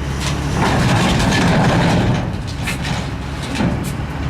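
Heavy diesel engine running steadily, louder for the first two seconds, with a few light clicks near the end.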